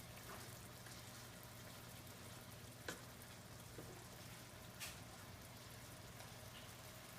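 Yogurt-marinated chicken thighs frying in hot ghee in a large pan: a faint, steady sizzle. Two sharp clicks come about three and five seconds in.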